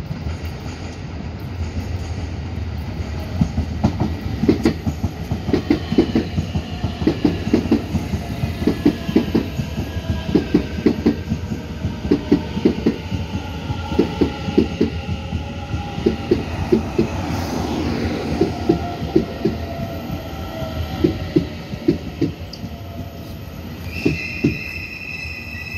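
Taiwan Railway EMU900 commuter train arriving alongside the platform: a steady rumble with wheels clacking over rail joints in quick repeated pairs as the cars pass, under a whine that falls in pitch as it slows. A steady high squeal sets in near the end as it comes toward its stop.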